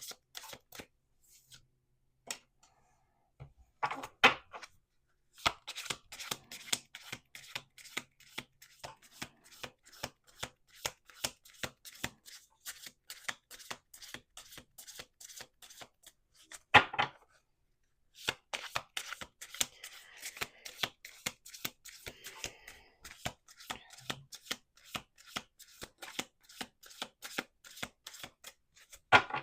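A Lenormand card deck being shuffled by hand: rapid runs of card clicks with short pauses, and a louder knock about four seconds in and again past halfway.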